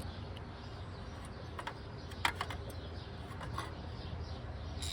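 A few light clicks and taps, the loudest a little past two seconds in, over a steady low hum.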